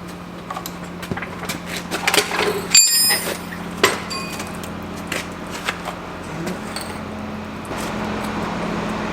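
Scattered knocks and clicks of handling over a steady low engine hum, with a brief high ringing about three seconds in.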